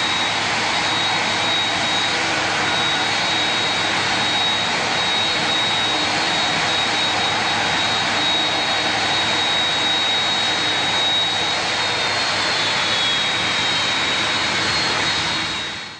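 Jet airliner engines idling as the airliner taxis, heard from the cockpit: a steady rushing hiss with a thin, high, steady whine over it. It cuts off suddenly near the end.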